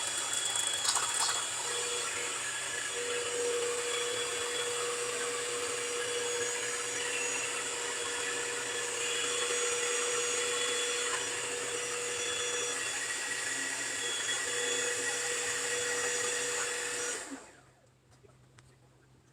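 An electric motor-driven machine running steadily with a whirring hiss, switched off about seventeen seconds in.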